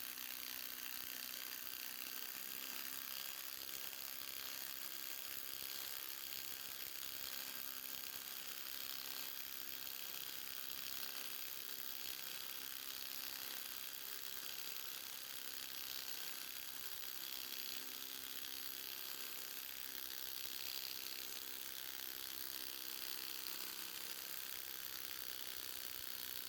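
Ryobi PBLID02 brushless impact driver, modded to a 1/2-inch anvil, hammering steadily as it drives a 1/2-inch, 5-inch lag bolt into a dense log.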